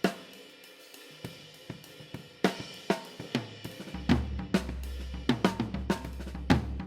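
Mixed drum kit track playing. A cymbal crash opens, followed by light hi-hat ticks. About two and a half seconds in, heavier kick and snare hits come in, and a low bass sound joins under them from about four seconds in.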